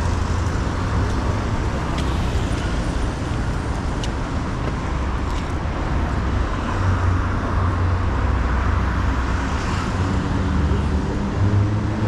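Steady road traffic noise: the engines and tyres of cars and buses moving along a busy avenue, a continuous rumble and hiss without pause.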